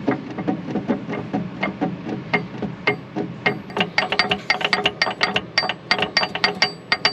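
Metallic clicking and clunking from a Case 8250 combine gearbox as its shaft is worked back and forth by hand, coming much faster after about three seconds, some clicks ringing. It is the knock of play in a worn cup-and-cone bearing: the bearing is going out.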